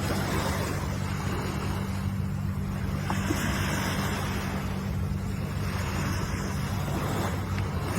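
Ocean waves surging and washing in, a new swell of hiss every few seconds over a steady low rumble.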